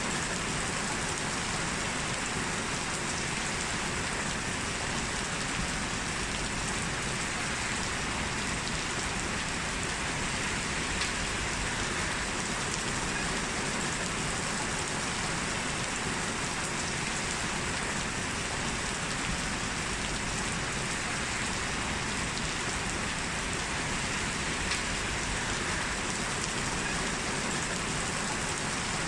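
Heavy rain falling steadily, an even hiss of rain on hard surfaces with a few faint drop ticks.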